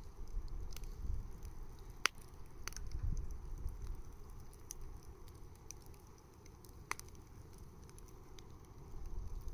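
Wood bonfire crackling, with scattered sharp pops, the loudest about two seconds in and another near seven seconds, over an uneven low rumble.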